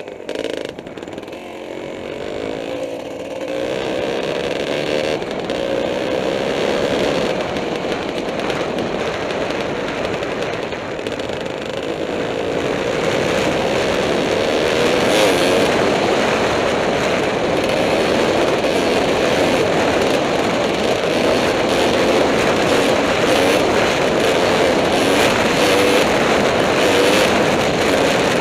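Kawasaki KDX 220R two-stroke dirt bike engine running under way on a trail. The revs climb over the first few seconds, ease off briefly, then hold at a higher steady pitch.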